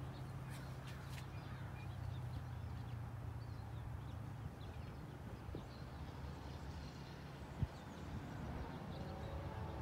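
Faint, steady low rumble of the Amtrak Pacific Surfliner passenger train receding into the distance, with faint bird calls. A single sharp click comes about three-quarters of the way through.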